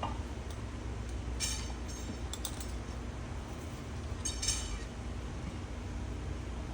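Steady low rumble with brief metallic clinks: one about a second and a half in, a double clink around two and a half seconds, and another around four and a half seconds.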